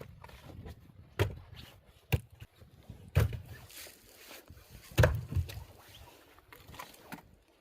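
Axe striking firewood logs to split them: four hard, separate blows about a second or two apart, the loudest about five seconds in, each followed by a few lighter knocks of wood.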